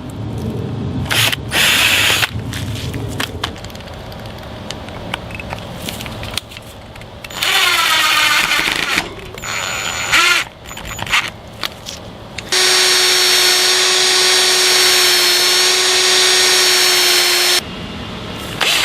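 Power drill with a countersink bit, run in short bursts, speeding up and slowing about eight seconds in, then running steadily for about five seconds near the end.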